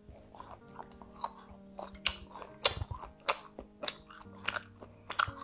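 Close-miked chewing of a mouthful of chocolate-banana bread roll, with sharp, irregular mouth clicks about twice a second.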